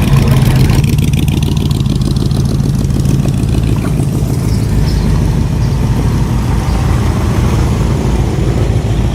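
Car engine running steadily, with a rapid low pulse of firing strokes.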